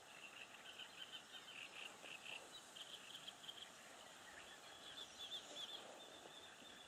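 Faint small-bird song: three short runs of quick, wavering high chirps over a quiet background hiss.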